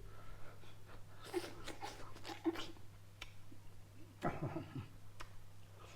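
Close-up mukbang eating sounds: wet chewing and lip-smacking clicks of a person eating chicken liver curry, with two short vocal sounds, about a second and a half and four seconds in, over a steady low hum.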